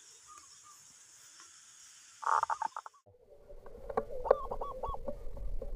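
Birds calling: a short run of quick repeated calls about two seconds in, and after a sudden change in the background, another run of repeated calls over a steady low hum.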